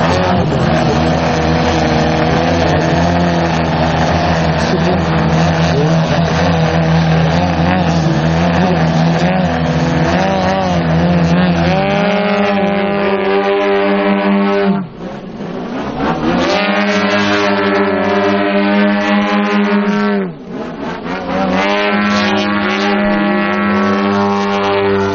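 Engines and propellers of two large radio-controlled Extra 330SC model aerobatic planes running in formation flight. Twice, about 15 and 20 seconds in, the engine note drops away sharply and then climbs back up as the throttle is cut and reopened.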